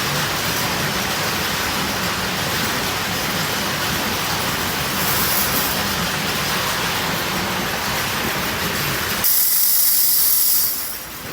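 Steady, noisy machine din, then near the end a sudden loud high-pitched hiss for about a second and a half before it drops away.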